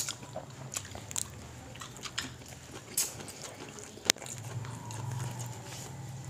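Close-up mouth sounds of eating by hand: chewing and lip-smacking on fried fish and rice, with many small wet clicks and one sharp click about four seconds in. A low steady hum runs underneath.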